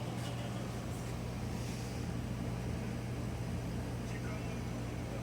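Steady low hum at a constant level, with a few faint light ticks over it.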